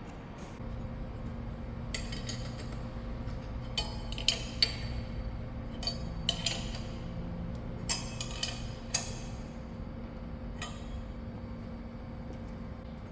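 Steel tools and parts clinking and ringing against one another, about ten separate knocks, over a steady machine hum that starts about half a second in.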